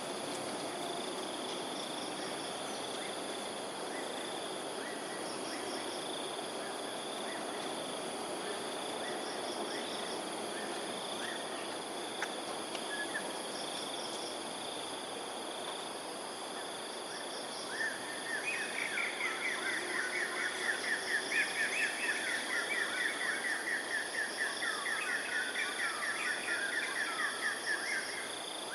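Steady high insect drone with short bird trills repeated every couple of seconds; about two thirds of the way through, a loud run of rapid chattering calls starts and goes on for about ten seconds.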